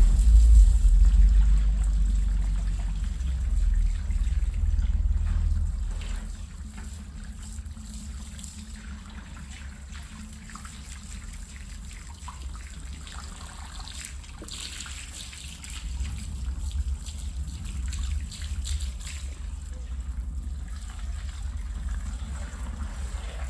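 Water trickling and splashing on a rug being washed, over a low rumble that is loudest for the first six seconds or so and then drops away.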